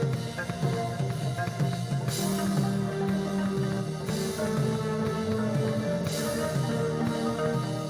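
Instrumental psychedelic rock band playing: sustained guitar notes and a moving bass line over a drum kit, with a cymbal crash about every two seconds.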